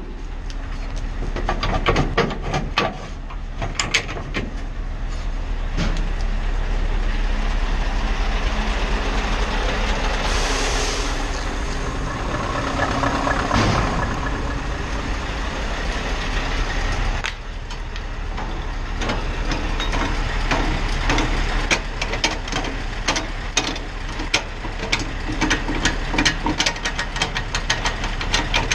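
Scania R520 V8 truck heard from the cab, a steady low engine drone under many sharp clicks and rattles, with a brief hiss about ten seconds in.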